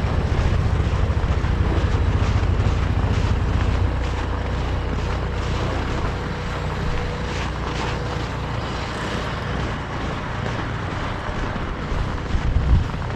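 Steady low rumble of a car on the move, engine and road noise mixed with wind. It eases a little after about four seconds, and a few knocks come near the end.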